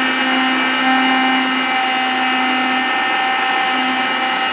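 Wet-and-dry shop vacuum running steadily: a constant motor hum and whine over a rush of air.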